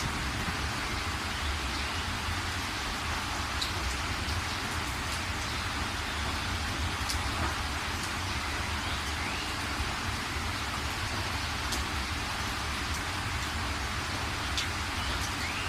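Heavy rain falling steadily in an even hiss, with a few sharper drop ticks scattered through.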